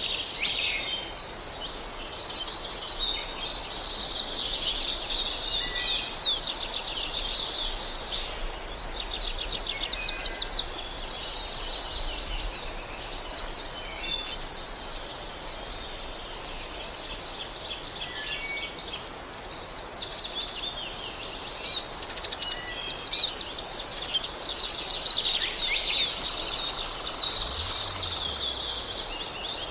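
Songbirds chirping and trilling, many quick high chirps overlapping in a busy chorus that thins out for a few seconds in the middle.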